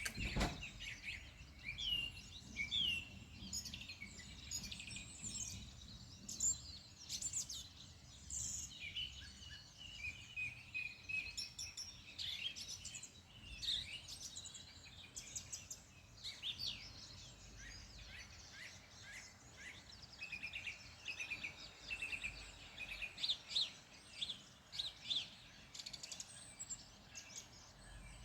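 Several small birds chirping and singing, many short overlapping calls and trills throughout. A brief low thump at the very start.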